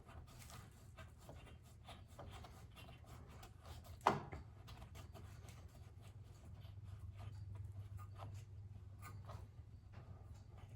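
Quiet handling of snowblower parts: light clicks and rubbing as the covers are loosely fitted back on by hand, with one sharp knock about four seconds in.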